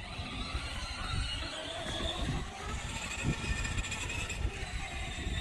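A 24-volt children's ride-on electric car driving, its small electric motors giving a faint steady high whine over a low rumble.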